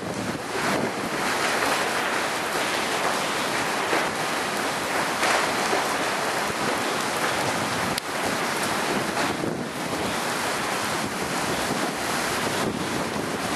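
Hurricane winds rushing over the microphone, a steady noise that swells and eases a little.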